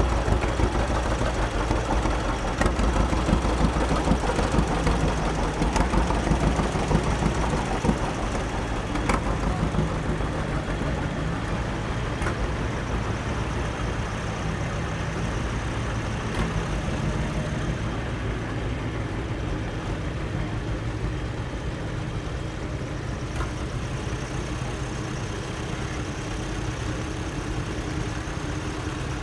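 Antique farm tractor engines running, a low steady rumble that gets a little quieter after about ten seconds.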